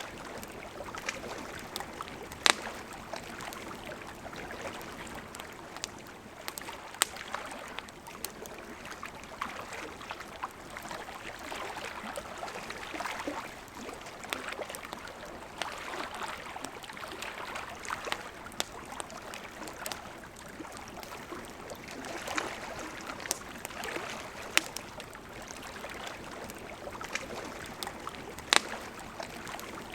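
River water flowing steadily, with a wood campfire crackling and giving off occasional sharp pops.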